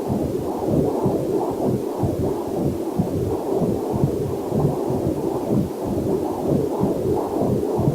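Whooshing, rhythmic heartbeat pulses picked up by a fetal Doppler heart monitor, muffled and low, with a faint waterfall hiss mixed in underneath.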